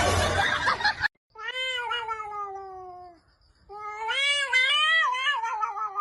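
A domestic cat giving two long, drawn-out meows, the first sliding down in pitch and the second wavering up and down. Before them, a loud burst of noise cuts off suddenly about a second in.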